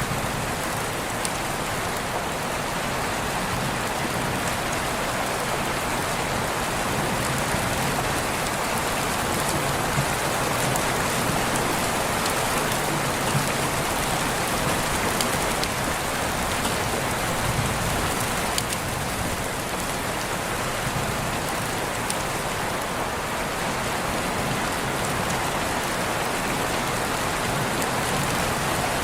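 Steady rain falling, a dense even hiss with scattered drops pattering on surfaces.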